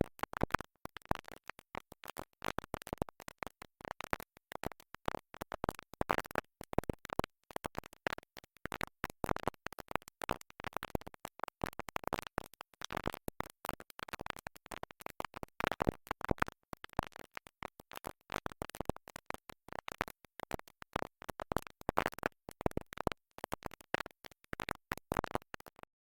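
A stuck record: music stuttering in short chopped fragments that cut in and out many times a second, with scratchy skipping.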